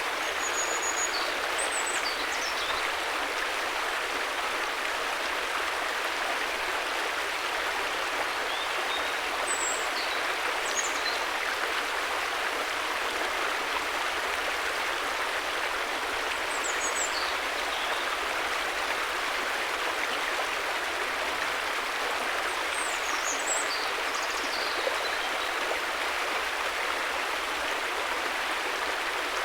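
River water flowing in a steady, even rush, with a few brief high chirps heard about four times over it.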